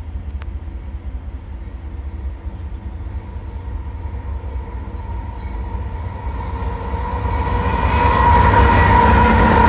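A pair of Union Pacific diesel locomotives approaching, a low engine rumble growing steadily louder, with steady higher-pitched tones coming up over the last few seconds.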